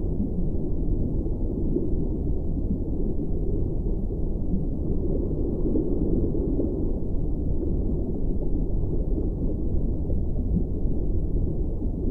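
Steady, deep rumbling noise with no clear pitch, all of it low and muffled with nothing bright on top, swelling slightly at times; a low soundscape bed in a sound-healing track.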